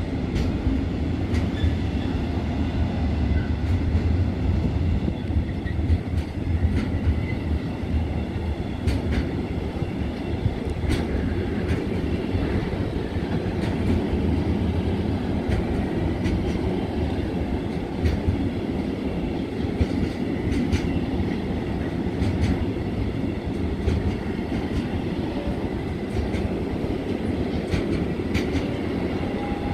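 Freight train of pocket wagons carrying lorry semitrailers rolling past at close range. Its wheels give a steady rumble on the rails, with irregular clacks over the rail joints.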